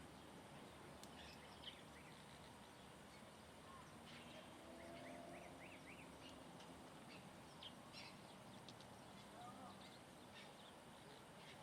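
Several small birds chirping and calling faintly over a steady background hiss, with short scattered high notes and a quick run of about five rising notes about halfway through.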